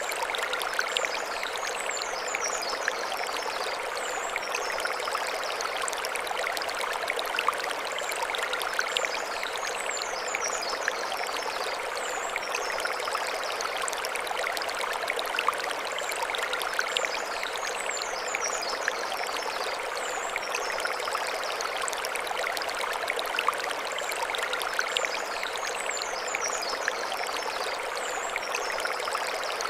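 Mountain stream running over stones: a steady rushing and trickling, dotted with small splashes. A short high warbling phrase recurs about every eight seconds, four times in all.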